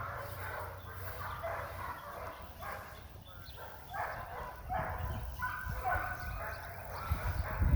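A young bird dog whimpering and yipping in short, repeated cries, excited on its first encounter with a bird.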